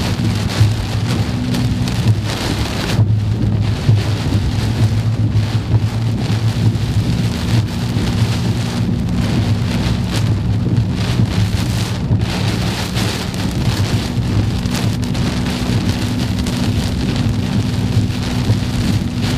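Heavy thunderstorm rain pounding on a car's roof and windshield, heard from inside the cabin, with a steady low hum from the car underneath.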